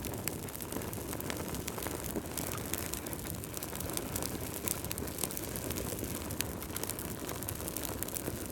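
Wood fire burning in a fireplace: a steady low rumble of flames with frequent sharp crackles and pops from the logs.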